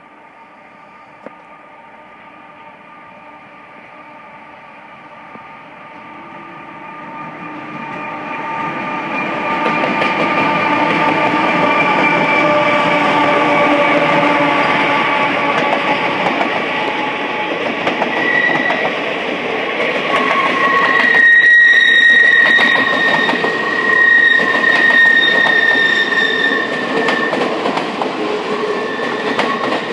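Passenger-style circus train led by two CSX diesel locomotives approaching and running past, growing louder over the first ten seconds or so. The railcars then roll by with clacking wheels and steady high-pitched squealing tones from the wheels that come and go.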